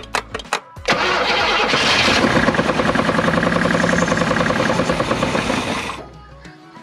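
Camaro engine cranked by the starter, catching about a second in and running for about five seconds before it dies. The starter begins cranking again near the end.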